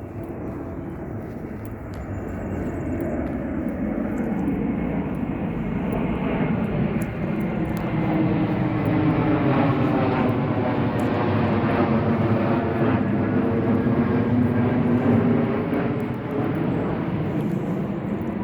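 Aircraft passing overhead: a loud, steady rumble that swells over several seconds to a peak past the middle, then eases slightly.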